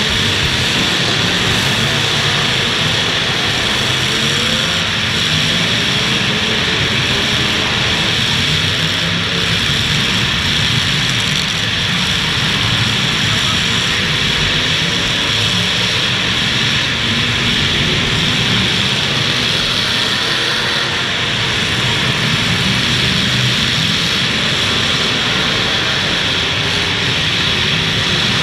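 Several full-size demolition derby car engines running and revving together in a continuous loud din, their pitches rising and falling as the cars accelerate and back up.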